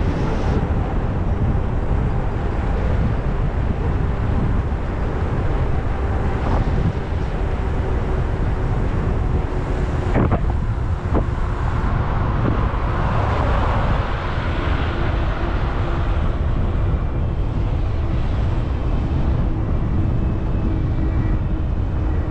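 Wind buffeting the camera microphone during an e-bike ride, a loud steady rumble, with a couple of sharp clicks about ten seconds in and a swell of louder noise a little after.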